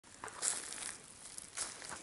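Footsteps scuffing on the ground outdoors: two noisy steps, about half a second in and again near the end.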